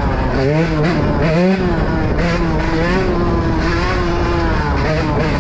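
Yamaha YZ125 two-stroke dirt bike engine revving: a few quick rises and falls in pitch in the first second or so, then running at a steady pitch.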